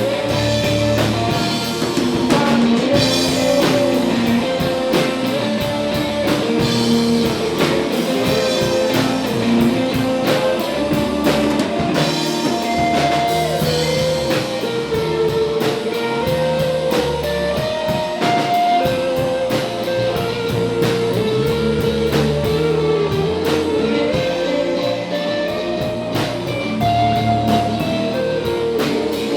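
Rock band playing live in an instrumental passage: a guitar melody steps between notes over low bass notes and a drum kit keeping a steady beat.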